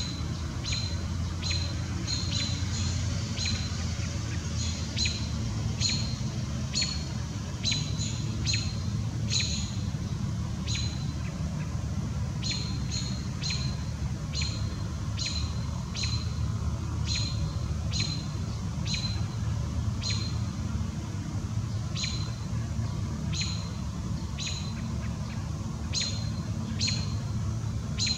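A bird repeatedly giving short, sharp, high chip notes, about one or two a second with an irregular rhythm, over a steady low rumble.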